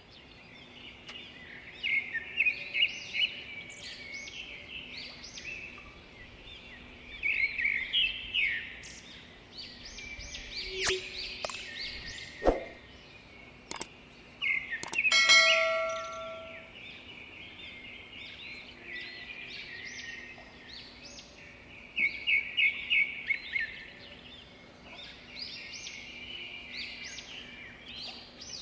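Birds chirping and singing in repeated bursts of quick high notes, over a faint steady hum. About halfway through come a few sharp clicks, then a single metallic clang that rings for about a second.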